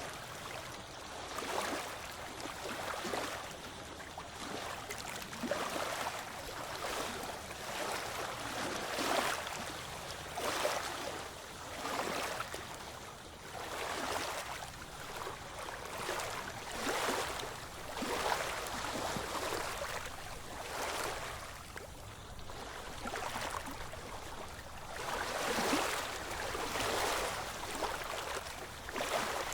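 Small ocean waves washing in, one soft surge of water after another every second or two.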